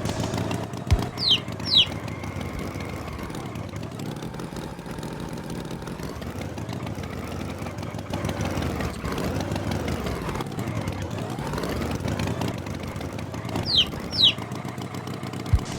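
Tractor engine sound effect running steadily, its pitch slowly swelling and sinking. Twice a pair of short high falling chirps cuts in, and there is a single sharp thump near the start and again near the end.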